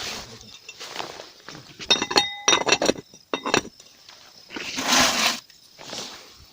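Camp cookware and utensils clinking. A few sharp clinks with a brief ringing tone come about two seconds in, then more knocks, and a longer rustling, scraping noise follows near the end.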